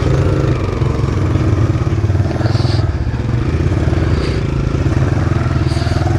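Kawasaki KLX140 dirt bike's single-cylinder four-stroke engine running at a steady idle, brand new and not yet broken in.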